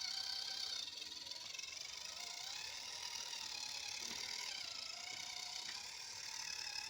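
Small electric motor and plastic gearbox of a radio-controlled model tractor running, a high gear whine that rises and falls in pitch as it speeds up and slows.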